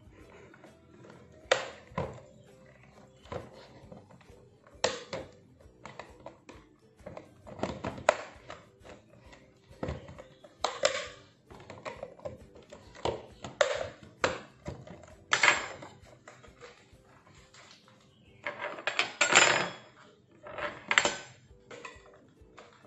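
Irregular plastic clicks, knocks and rattles of a Dyson V6 cordless vacuum's parts being handled and opened, with the busiest clatter near the end.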